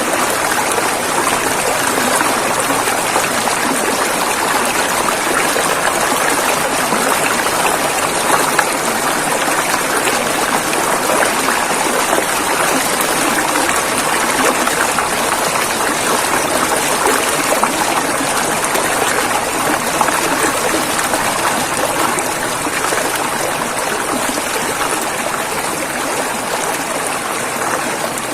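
A river's water rushing over rocks, a steady, even rush with fine splashing texture throughout.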